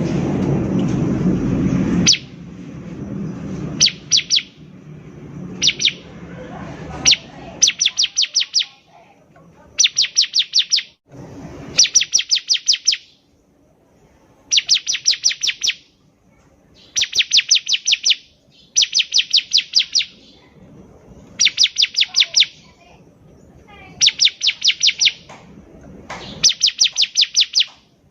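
Bar-winged prinia (ciblek) singing: bursts of rapid, high chipping notes, each burst about a second long, repeated every two to three seconds. A loud low rumble is also heard at the start and stops about two seconds in.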